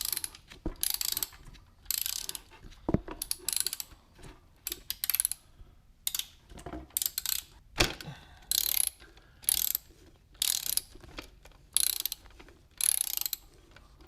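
Hand ratchet clicking in short repeated strokes, about one burst a second, as it backs out a bolt, with a few single sharper knocks of metal on metal among them.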